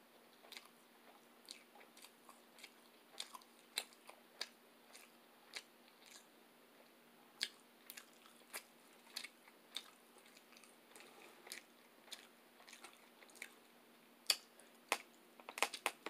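A person chewing food close to the microphone: soft wet mouth clicks and smacks at irregular intervals, with a quicker cluster of clicks near the end.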